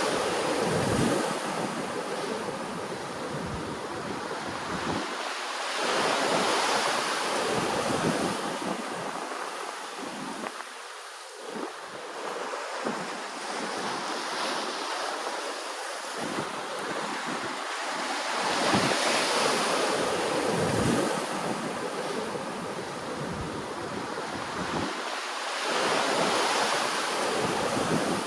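Ocean waves rolling in, the wash swelling and fading about every six to seven seconds, with wind rumbling on the microphone.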